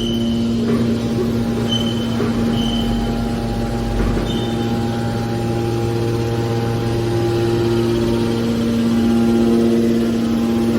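Aluminium can baler's hydraulic power unit running with a steady electric hum made of several steady tones. Brief high squeaks come at the start and about two and three seconds in.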